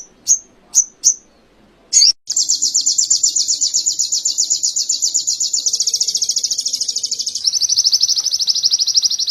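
Ruby-cheeked sunbird (sogok ontong) singing canary-style song: a few short, sharp high chirps, then a long, very fast high trill that switches to a slightly lower trill about seven seconds in.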